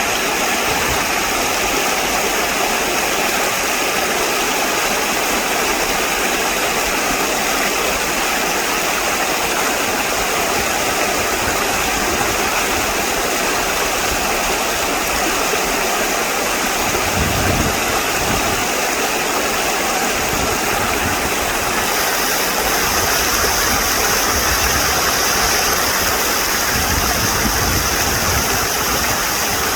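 Steady rushing of flowing stream water, with a couple of brief low rumbles about seventeen seconds in and near the end.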